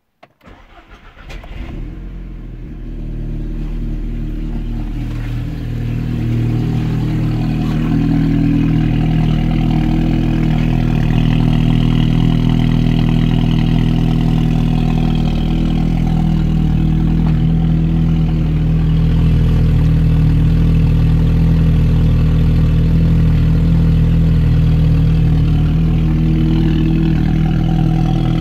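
2008 Audi TTS's turbocharged 2.0 TFSI four-cylinder cold-started, breathing through a Milltek sport catalytic converter: a brief crank, then it catches and settles into a steady cold idle. The sound grows louder over the first several seconds, then holds steady.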